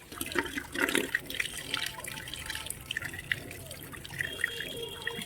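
Water running and splashing in a sink, with irregular drips and small splashes.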